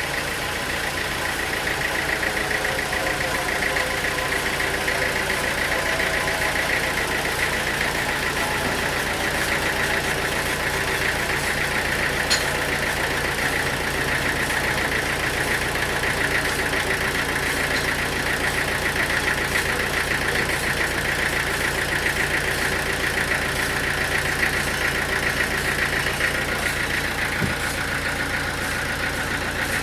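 Sawmill machinery running steadily with a continuous motor drone and a high whine, the pitch sinking slightly over the first several seconds.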